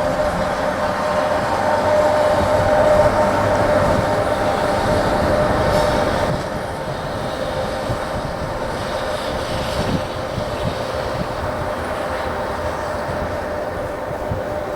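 JNR EF64-0 series DC electric locomotive pulling away with its cooling blowers running in a steady whine over the rumble of its wheels on the rails. The sound drops a step about six seconds in.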